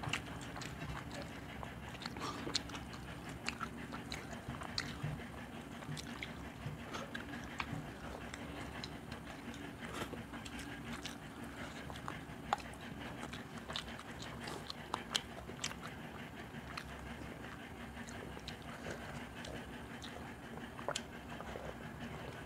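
Close-miked chewing and mouth sounds of people eating curry and rice by hand, with many small irregular clicks of fingers and food against steel plates.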